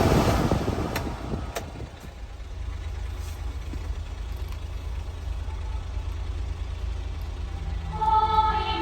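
1997 Honda Acty mini truck running: a loud rushing noise at the start dies away over about two seconds and leaves a steady low hum, with two faint ticks early on. Music comes in near the end.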